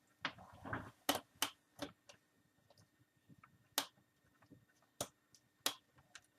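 Plastic screen bezel of an Acer Aspire 5750 laptop being pressed back onto the lid: a brief scrape, then about six sharp clicks spread unevenly as its clips snap into place.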